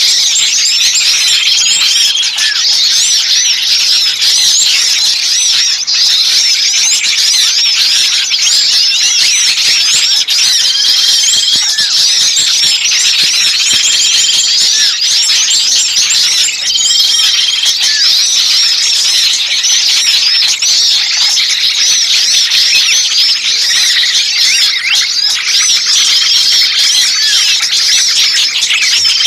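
A dense, unbroken chorus of small songbirds chattering and twittering in alarm, the agitated calls of a trapped small bird used as a lure for other birds. A short flat whistle sounds again every few seconds over the chatter.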